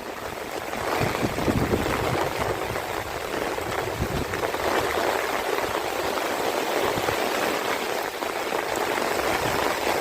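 Steady rain falling, a dense patter of many drops, a little louder from about a second in.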